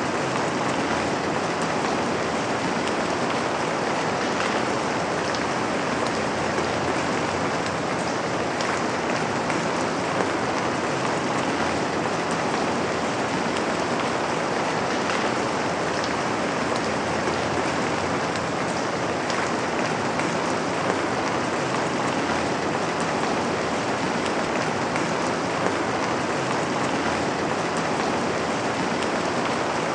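Steady rain falling on a window: an even hiss of rain, with now and then a sharper single drop.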